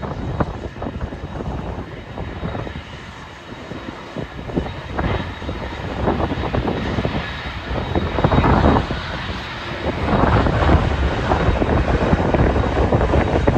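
Airliner engines running at an airport, a steady rumble with a faint whine that grows louder about ten seconds in. Wind buffets the microphone in uneven gusts.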